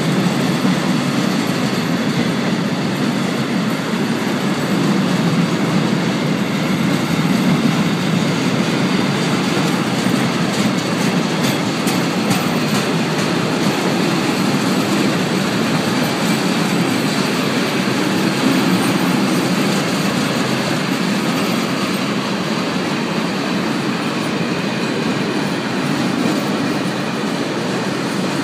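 Intermodal freight wagons loaded with containers and swap bodies rolling past at steady speed: a continuous rumble of steel wheels on rail, with a few faint clicks around the middle.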